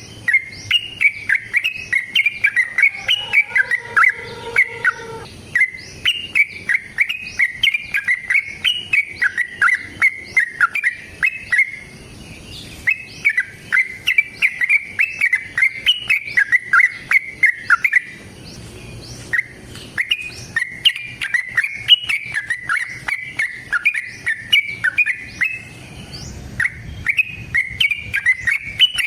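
Yellow-vented bulbul (trucukan) singing long runs of quick, bubbling chirps, phrase after phrase with short breaks between. This is the long 'ropel' fighting song.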